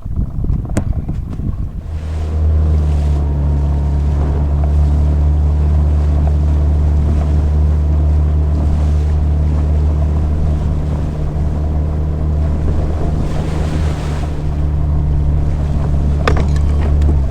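Small boat outboard motor running at a steady speed, coming in about two seconds in and holding an even pitch, with wind buffeting the microphone.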